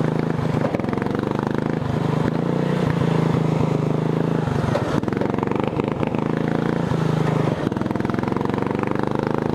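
Racing lawn tractor's engine running under load during a ride, its pitch rising and dipping with the throttle, with clattering knocks from the chassis over bumps.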